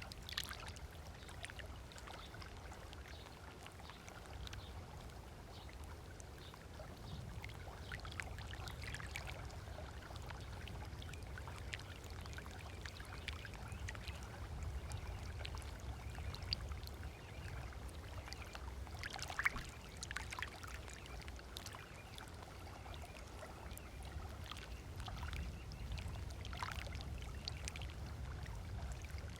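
Small waves lapping and splashing softly at a sandy lake shore, in scattered irregular slaps, over a low steady rumble.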